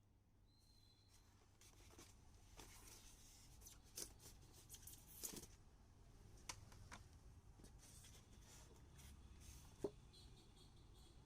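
Near silence with faint room hum, broken by a handful of sharp small clicks and light rustling, one louder click near the end.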